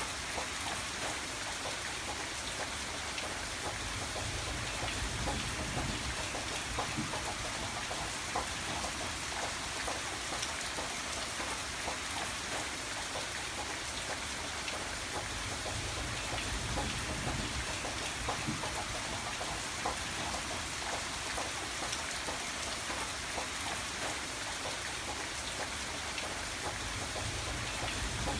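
Steady rain falling, a constant hiss of many drops pattering on a surface, with a low rumble that swells and fades a few times.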